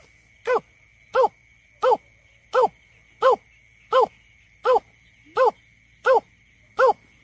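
Greater Painted-snipe giving its call: a steady series of short, low hoots, about ten evenly spaced notes at roughly three every two seconds, each dipping slightly in pitch.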